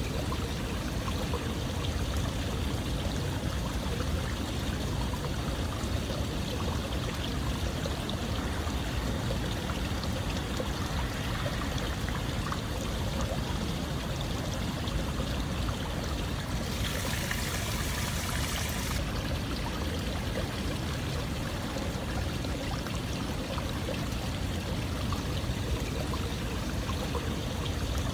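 Steady running water, a continuous stream-like rush and trickle. Around two-thirds of the way through, a brighter hiss rises over it for about two seconds and then drops away.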